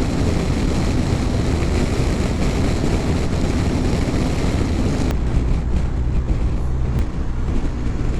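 Motorcycle riding at highway speed: strong wind rushing over the microphone over the steady drone of the engine. The high hiss eases suddenly about five seconds in, leaving the low engine drone.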